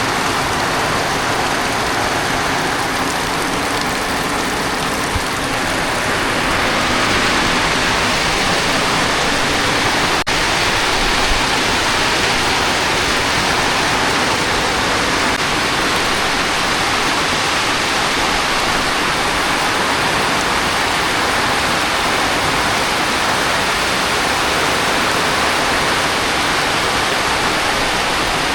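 Heavy rain pouring down steadily, a dense even hiss that grows a little heavier about six seconds in.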